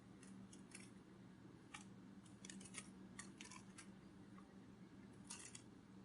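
Faint, irregular light clicks and ticks, several in quick clusters, over a low steady hum: a sound effect meant as a butterfly's wings fluttering.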